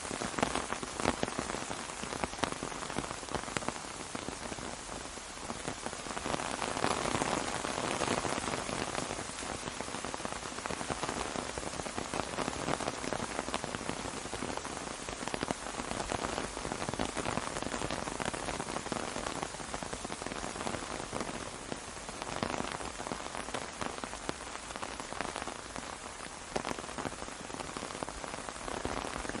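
Steady rain falling on an umbrella overhead, a dense spread of fine drop ticks. It swells a little about seven seconds in and again a little after twenty seconds.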